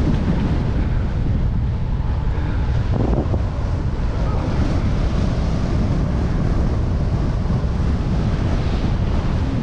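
Strong wind buffeting the microphone of a bike-mounted camera while cycling: a loud, steady low rumble.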